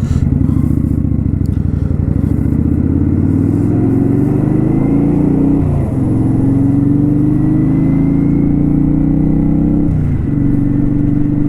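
Kawasaki Vulcan 900 V-twin motorcycle engine pulling under acceleration. Its pitch climbs steadily and falls sharply twice, about six and ten seconds in, as it shifts up through the gears.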